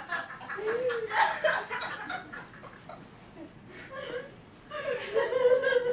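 Live theatre audience laughing, dying down after about two seconds, with a voice heard again near the end.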